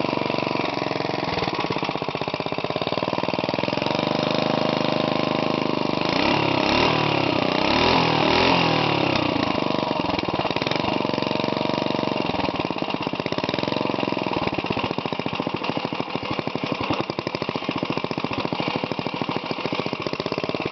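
Briggs & Stratton 5 hp single-cylinder engine running through a homemade FloMastr-type muffler, not as deep and throaty as a full-size muffler. The revs rise and fall about six to nine seconds in, then it settles to a slower, steadier beat.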